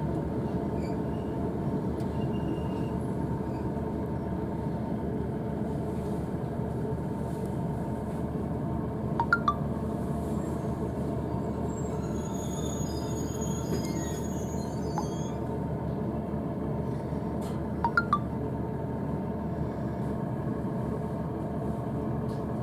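Cabin noise inside a Class 156 diesel multiple unit on the move: a steady rumble from the running gear and underfloor engine. Two short clusters of sharp metallic clicks come through, one about halfway through and one about four-fifths of the way through.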